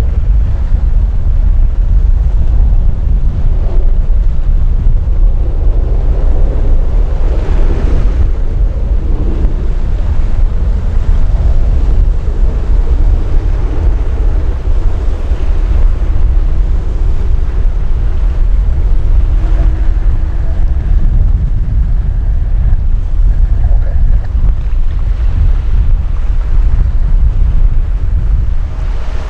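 Strong wind buffeting the microphone: a loud, steady low rumble, with a faint steady tone for a few seconds in the middle.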